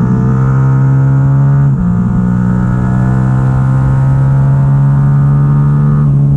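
A 2022 Yamaha R7's stock 689 cc parallel-twin engine running at steady throttle at speed. It holds a fairly even pitch, with a brief break about two seconds in and a step up in pitch near the end.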